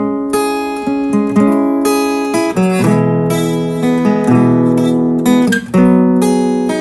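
Background music: strummed acoustic guitar, a new chord about every second.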